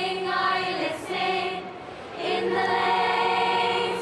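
Girls' choir singing a Christmas carol, holding long sustained notes, with a short break between phrases about two seconds in.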